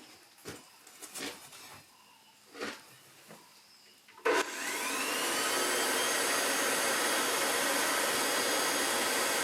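An electric forge blower switches on about four seconds in: its whine rises as the motor spins up, then it runs steadily with a loud rush of air. Before it, a few light knocks and clicks of handling.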